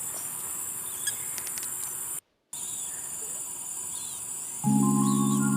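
Outdoor insect chorus, a steady high-pitched trilling, with a few faint short bird chirps in the second half. The sound drops out briefly about two seconds in, and near the end soft background music with sustained chords comes in over it.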